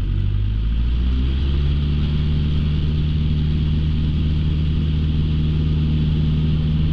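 Light aircraft's piston engine, heard from the cockpit, coming up to full take-off power: its pitch rises over the first second or two and then holds steady.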